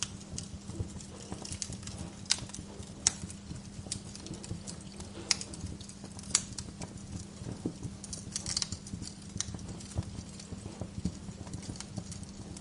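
Bonfire crackling: burning logs give irregular sharp pops and snaps, a few of them louder, over a steady low rumble.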